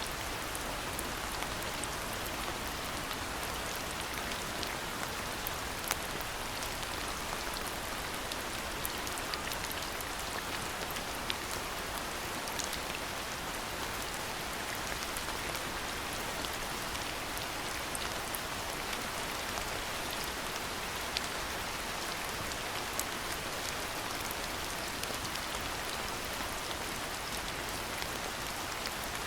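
Steady rainfall: an even hiss of rain, with scattered individual drops ticking close by.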